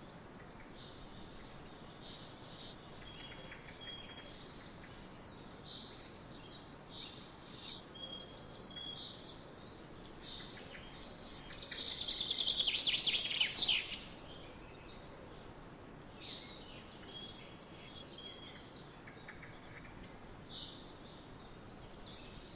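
Birds calling: short high calls repeating on and off, with a louder burst of fast chattering notes for about two seconds in the middle.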